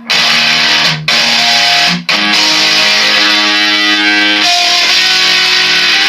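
Electric guitar playing a low riff through a Danelectro FAB D-3 Metal distortion pedal, with the pedal's tone control turned fully to treble. The sound is heavily distorted, bright and bitey, with held notes that change every second or so.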